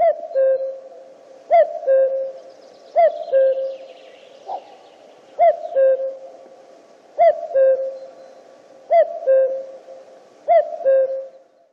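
Common cuckoo (Cuculus canorus) male calling its two-note "cu-coo", the second note lower than the first, repeated seven times about every one and a half to two seconds with a longer gap in the middle.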